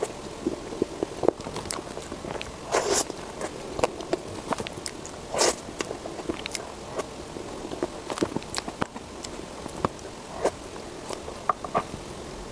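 Close-miked eating: a few loud crisp bites and crunches, about three and five and a half seconds in, among many small mouth clicks and smacks.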